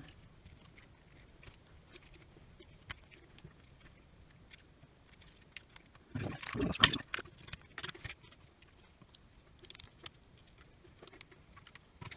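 Rotary tool's plastic case and internal parts being handled and fitted together: scattered small clicks and taps, with a louder spell of scraping and rattling about six to seven seconds in.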